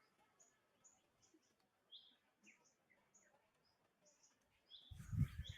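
Birds chirping in short, scattered high calls, with a sudden loud low rumble about five seconds in.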